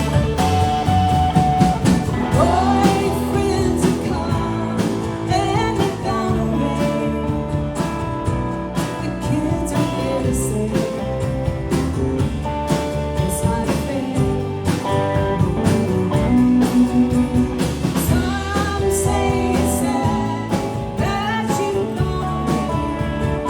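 Live band playing a country-rock song: guitars, bass and drums, with a lead line that bends in pitch.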